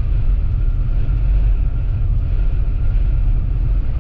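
Toyota Land Cruiser driving on a snowy highway in strong wind, heard from inside the cabin: a steady, loud low rumble of engine, tyre and wind noise.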